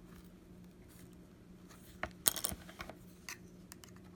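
A few light clicks and clinks from a small prying tool against the cracked glass of an iPad mini's front screen, with a quick cluster about two seconds in.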